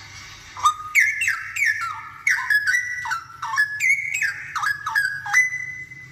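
Straw-headed bulbul (cucak rowo) singing a loud burst of rich whistled notes, most of them sliding down in pitch, that ends on one held note.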